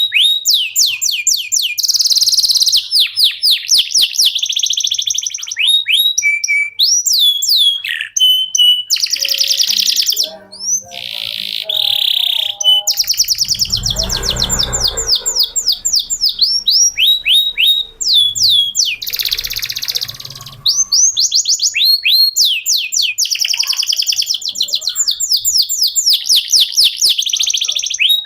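Male canary singing a long song of fast trills: rapid runs of repeated downward-sweeping high notes and rolls, with a few short breaks. A brief low rumbling noise comes in about halfway through.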